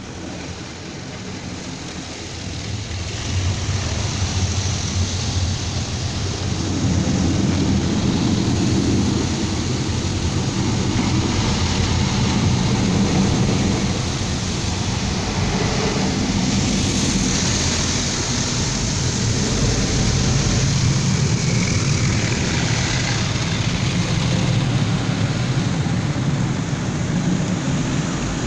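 Automatic car wash running over a car: a steady loud wash of water spray with a deep mechanical rumble, building up over the first few seconds.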